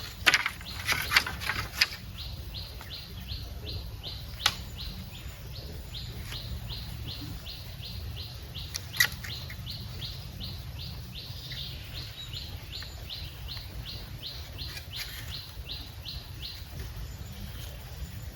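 A high chirp repeating steadily about two and a half times a second, with several sharp knocks in the first two seconds and one more about four and a half seconds in and another about nine seconds in.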